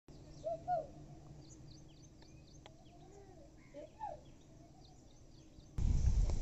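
Several birds calling outdoors: scattered high chirps and short swooping calls, the loudest under a second in and again about four seconds in. About six seconds in, a sudden loud low rumbling noise takes over.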